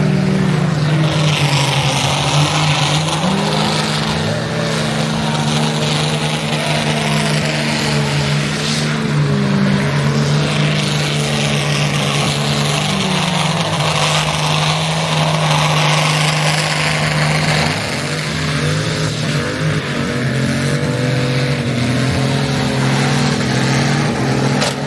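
A car engine held at high revs for a long stretch, its pitch stepping up and down a little over a steady hiss. It eases off slightly in the last few seconds.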